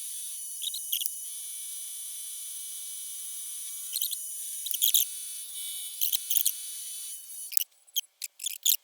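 Milling machine spindle running fast, a small 3/16-inch end mill cutting a slot in 304 stainless steel: a steady high whine broken by short squeals as the cutter bites. About 7.5 s in, the steady whine stops and a few sharp squeaky sounds follow.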